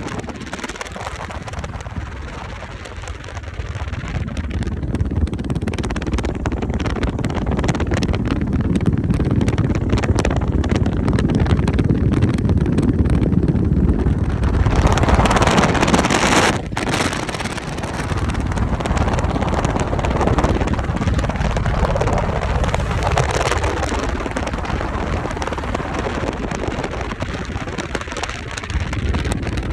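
Wind rushing over the microphone over the steady low rumble of a moving vehicle during a ride. It grows louder in the middle, with one brief cut-out of the sound about seventeen seconds in.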